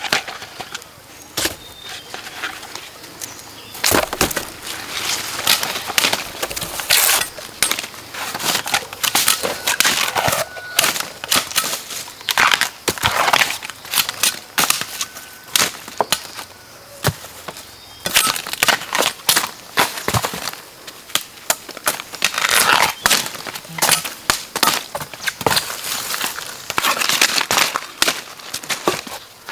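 Dense, irregular crunching and snapping, with many sharp cracks a second and louder clusters now and then.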